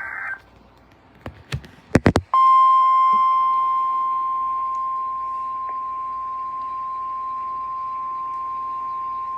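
NOAA Weather Radio alert signal: the end of a buzzy SAME digital data burst, a few sharp clicks, then about two seconds in the steady 1050 Hz warning alarm tone starts and holds on, announcing a warning broadcast.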